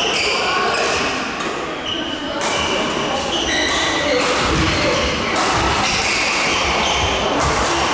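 Badminton rally in an indoor hall: rackets strike the shuttlecock roughly once a second, with sneakers squeaking on the court floor between the hits.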